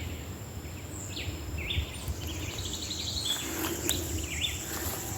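Wild bird calling in a series of short chirps, over a steady high-pitched whine and a low rumble.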